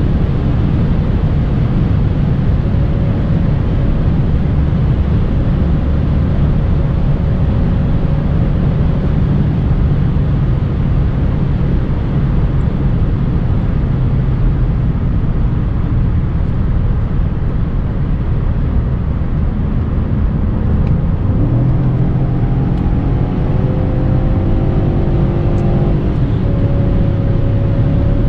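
BMW E39 540i's 4.4-litre V8 running at speed over a steady rumble of road and wind noise. About two-thirds of the way through, the engine note steps up and climbs under acceleration, then drops a few seconds later, as at an upshift.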